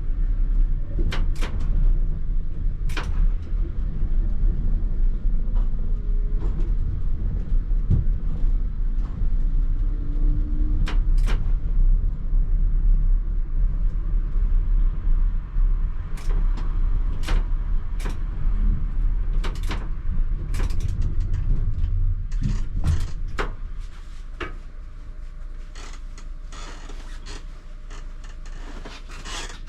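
ČKD Tatra T3R tram running on rails, heard from the driver's cab: a steady low rumble with scattered sharp clicks and knocks from the wheels and running gear, growing quieter in the last several seconds.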